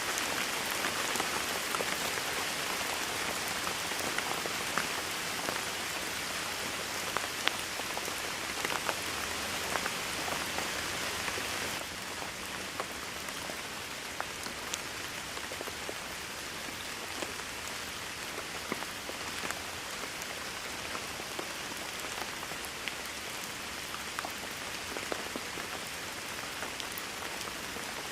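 Steady heavy rain with many individual drops striking close by. About twelve seconds in the rain drops to a slightly quieter, thinner level and stays there.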